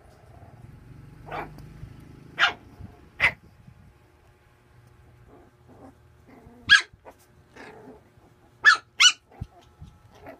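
A puppy barking in short, sharp barks during play: a few in the first few seconds, then after a short pause more from the middle on, two of them in quick succession near the end.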